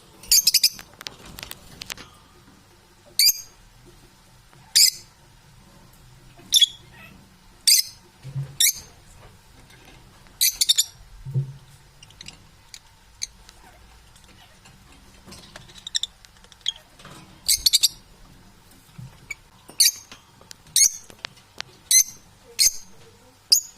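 Pet parrots giving short, high-pitched calls, one every second or two, with fainter chatter between.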